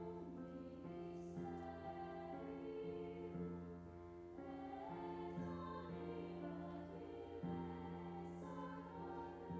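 Slow church music of held chords that change every second or so, with a choral, sung sound.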